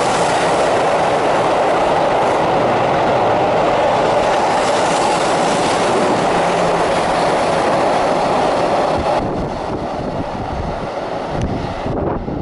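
Keihan 8000 series limited express electric train passing close at speed without stopping: a loud, steady rush of wheels running on the rails. The noise drops off abruptly about nine seconds in.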